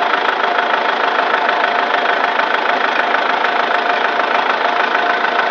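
Kubota M108S tractor's diesel engine idling steadily with a fast, even knocking tick, the noise that came on after air got into its fuel injection system.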